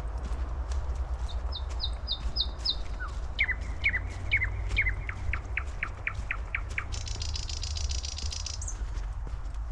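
Small forest birds calling: a quick run of five high, sharp notes, then about a dozen short notes sliding downward in a steady series, and a harsh buzzy call near the end. A low steady rumble and scattered faint clicks sit underneath.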